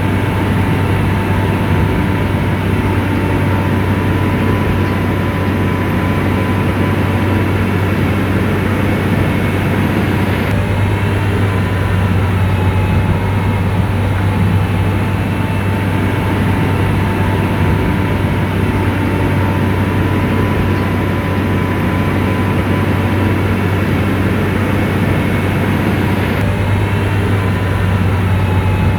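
Komatsu bulldozer's diesel engine running steadily with a constant low drone. The sound shifts abruptly twice, about ten seconds in and near the end.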